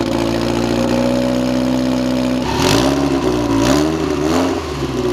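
A car engine idles steadily, then is revved three times in quick succession, with a sharp exhaust pop on each rev. This is the kind of blip-and-crackle that an onlooker had just guessed would be a two-step launch limiter.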